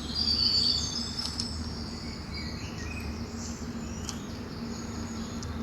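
Steady low background hum and noise, with a few faint high-pitched chirps in the first second and a half.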